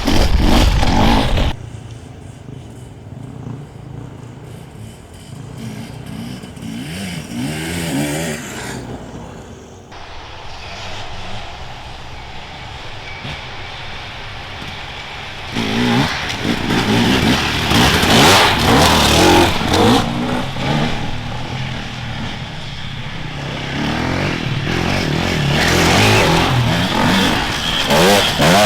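Enduro motorcycles riding past one after another, their engines revving up and down as the riders work the throttle over the course. One is loud and close at the very start, the middle is quieter with bikes further off, and louder passes follow from just past halfway and again near the end.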